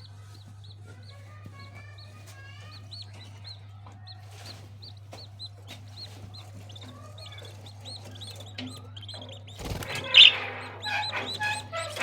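Parrot chicks chirping in a rapid series of short, high, evenly repeated peeps, about three a second, with a louder burst of calls about ten seconds in. A steady low hum runs underneath.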